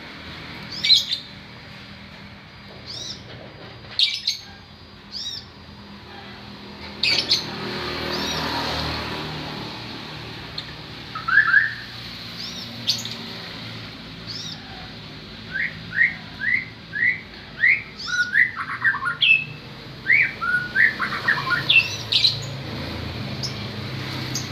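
Murai (magpie-robin) songbird singing: scattered sharp chirps, then in the second half a quick run of short whistled notes, about two or three a second.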